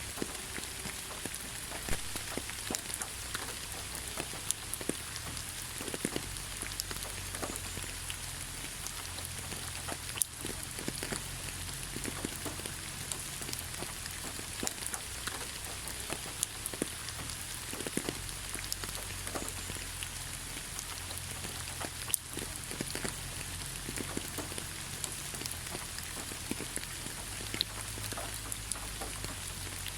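Steady rain falling on leaves, a constant patter with many separate drops ticking through it.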